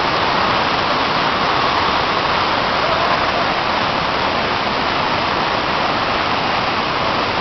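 Steady, loud rush of a large waterfall, the Salto Corumbá on the Corumbá River, a drop of about 68 m, heard close to the falling water.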